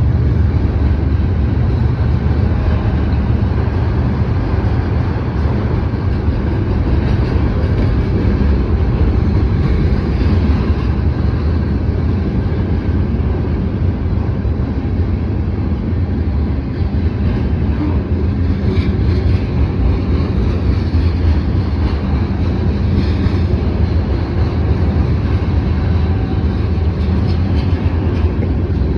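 Freight train cars rolling steadily past, a continuous loud rumble.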